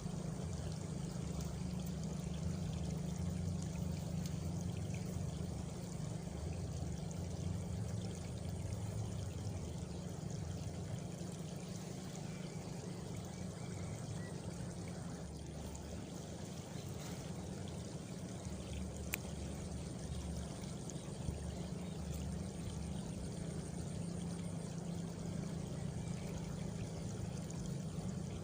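Steady rushing of flowing water, with a faint high insect trill partway through.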